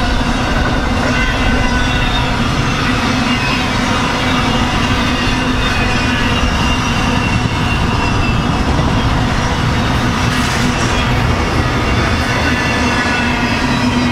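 BNSF intermodal freight train rolling past, a steady loud rumble of wheels on rail. A low hum holds throughout, with faint high ringing tones over it.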